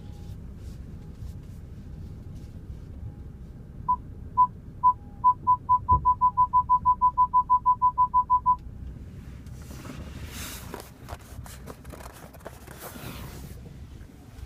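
Electronic beeps at one pitch, starting slowly about four seconds in, quickly speeding up to a rapid run of about six or seven a second, then stopping. A few seconds later comes a stretch of hissing, rustling noise.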